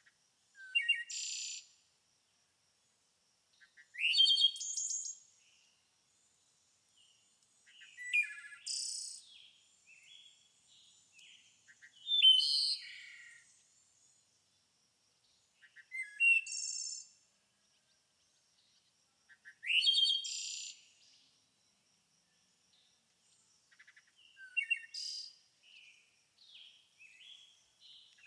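A songbird singing short chirping song phrases, each about a second long, repeated seven times at roughly four-second intervals.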